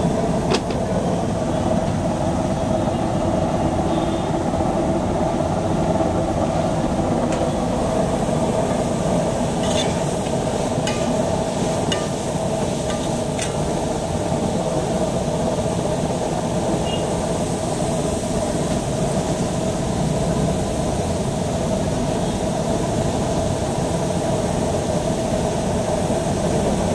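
Chopped onions and tomatoes frying on a large flat iron griddle over a steady low rumble. A few sharp clicks of the steel spatula come mostly between about ten and fourteen seconds in.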